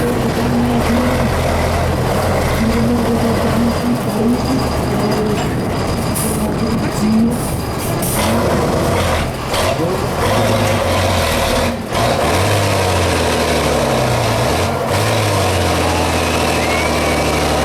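Heavy truck's diesel engine revving, its pitch rising and falling again and again.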